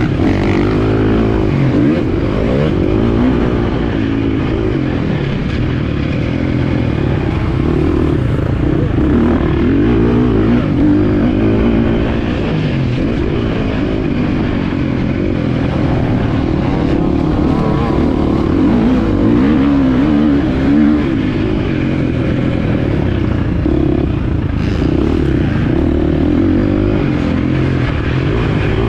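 Motocross bike engine running hard and continuously as it is ridden around the track, its pitch rising and falling with the throttle.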